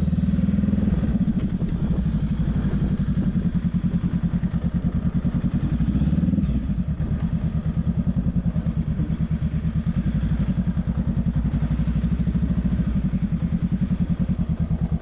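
Honda Rebel 500 parallel-twin engine running through a non-stock aftermarket exhaust at low speed. About six and a half seconds in the note drops and settles into a steady, even pulsing, as at idle.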